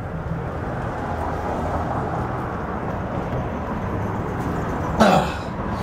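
Steady low mechanical hum with background rumble, then about five seconds in a sudden loud metal scrape, a screwdriver working against the drain to free a child's ball stuck in it.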